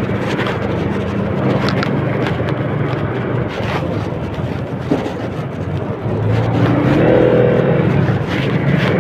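A vehicle engine running steadily, getting louder about two-thirds of the way through.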